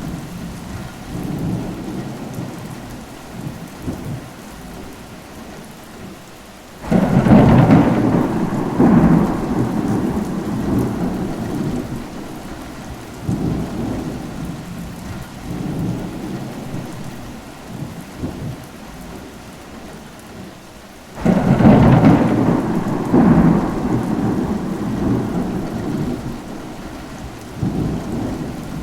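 Steady rain in a thunderstorm, with two loud claps of thunder, about 7 seconds in and about 21 seconds in, each rumbling on and fading over several seconds.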